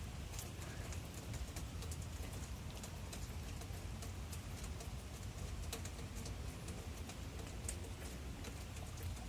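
Rain falling during a thunderstorm, with drops ticking irregularly on a hard surface over a steady low rumble.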